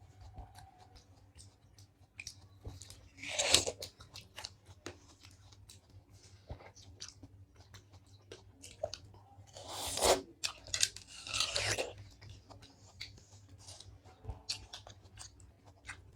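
Close-up eating: wet chewing and biting of food, with a steady run of small clicky mouth sounds and a few louder biting bursts, about three and a half seconds in and again around ten to twelve seconds.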